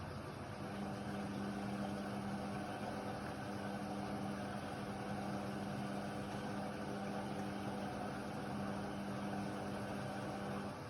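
Indesit WIDL 106 washer-dryer's motor running with a steady hum, starting about a second in and stopping just before the end, over a constant background hiss.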